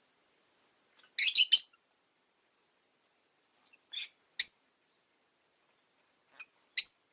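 Rosy-faced lovebirds giving short, sharp, high-pitched chirps: a quick run of three about a second in, two more around four seconds in, and a single call near the end, with silence between.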